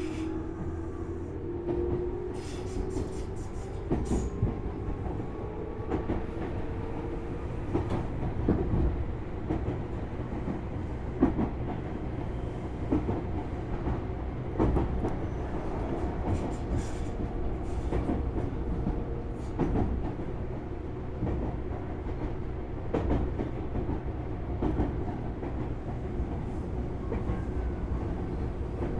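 Interior running sound of a Tobu Series 6050 resistor-controlled electric motor car: a steady low rumble of steel wheels on rail, with wheels clicking over rail joints at irregular intervals. A faint traction-motor whine rising in pitch fades out within the first few seconds.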